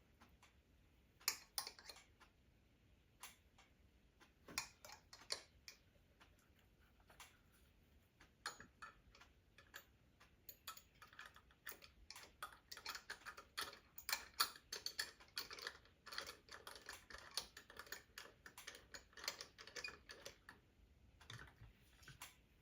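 Scattered sharp clicks and light taps of hand work with tools and hardware, sparse at first and coming thick and fast from about halfway through.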